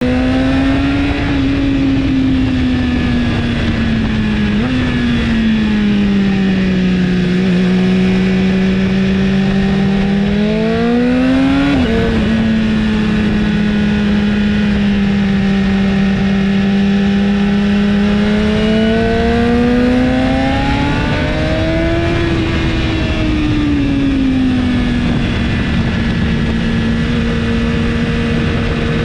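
2017 BMW S1000RR's inline-four engine with an Akrapovic exhaust, heard on board at speed: the engine note rises and falls with throttle and gear changes, with a sudden drop in pitch about twelve seconds in, over steady wind noise.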